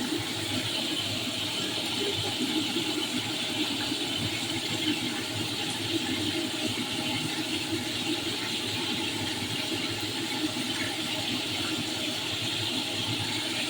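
Shrimp frying in hot oil: a steady, even sizzle.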